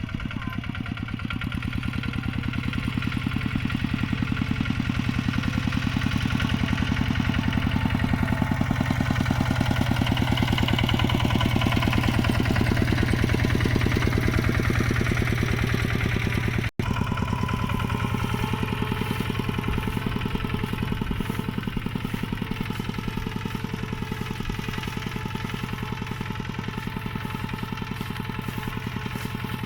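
Mini tractor engine running steadily with a fast, even chug. It breaks off for an instant about two-thirds of the way through, then carries on a little quieter.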